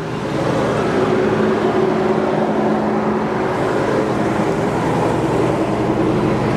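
Chevy 350 V8 with headers and dual exhaust idling steadily, a little louder from just after the start.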